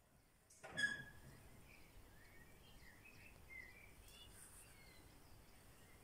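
Faint birds chirping and singing over a quiet outdoor background hiss, with a short, louder pitched chirp about a second in.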